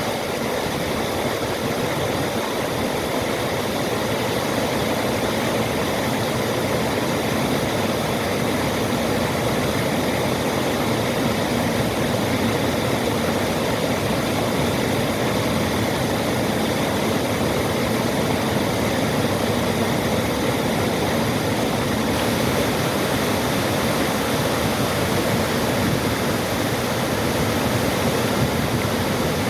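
Portage Brook Falls, a waterfall, rushing in a steady, unbroken roar of falling water.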